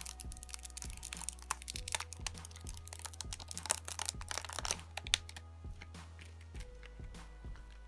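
Thin plastic protective film being peeled off a replacement tablet touchscreen, crackling in rapid small clicks that thin out after about five seconds. Background music with low held notes plays underneath.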